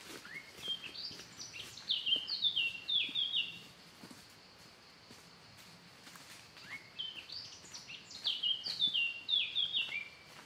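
A songbird singing two phrases, each about three seconds of quick high notes that step downward in pitch, a few seconds apart.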